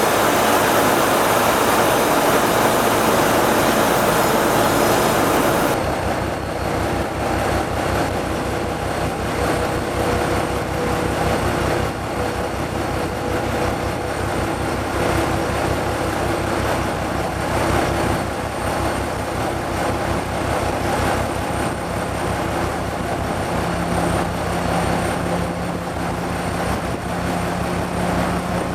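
Diesel engines of ChME3 shunting locomotives running steadily with a fast, even beat. For the first six seconds a loud rushing noise covers them, then cuts off suddenly.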